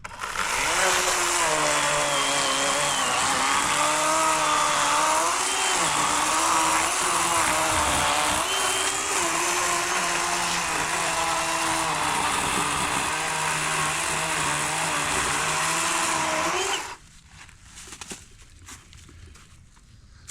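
Battery electric chainsaw (40-volt Worx with an 18-inch Oregon bar) cutting through a fallen log, its motor pitch dipping and recovering as the chain bogs under load. It runs for about seventeen seconds and then stops suddenly.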